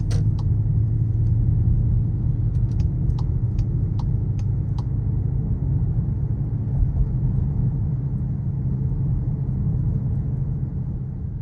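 Skoda Kodiaq RS 2.0 TSI driving along with a steady low engine and road rumble. A series of light, evenly spaced ticks, about two and a half a second, runs through the first few seconds. The whole sound fades away near the end.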